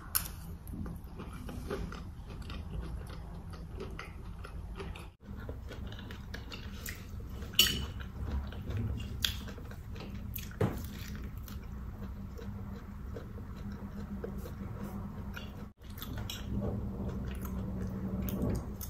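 Close-up mukbang chewing and biting: mouthfuls of cauliflower fried rice eaten off a spoon, and bites of a piece of meat held in the hands, with many small irregular wet mouth clicks. The sound drops out briefly twice.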